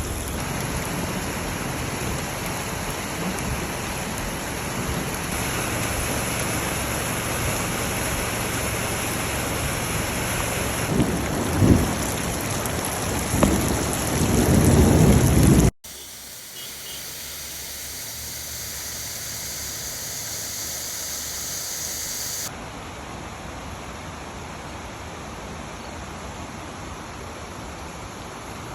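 Heavy rain falling steadily, with several deep, loud rumbles about eleven to fifteen seconds in. It then cuts abruptly to softer, steady rain.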